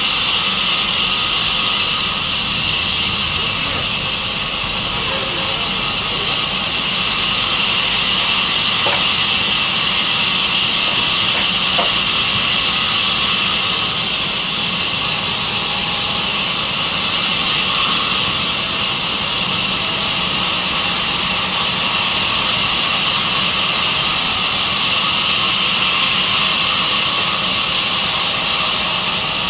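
Sawmill saw machine running steadily: a loud, even high-pitched hiss over a low machine hum.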